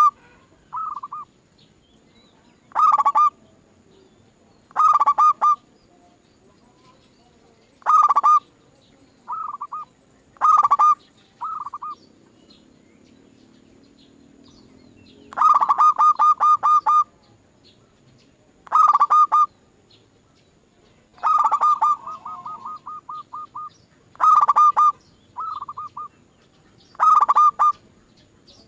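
Zebra dove cooing: short runs of quick, stuttering coos repeated every second or two, with one longer run about halfway through and a softer trailing run after it.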